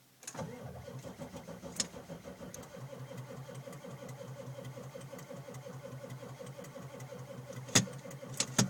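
1995 Ford F-350's 7.3-litre Powerstroke V8 turbo-diesel being cranked by the starter on a cold start at about −18 degrees, turning over in an even rhythm without catching. A sharp click about two seconds in and two louder clicks near the end.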